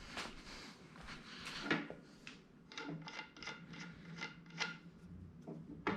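Metal parts of a cutting plotter being handled and hand-tightened. Scraping rubs come first, then a run of light clicks about two or three a second.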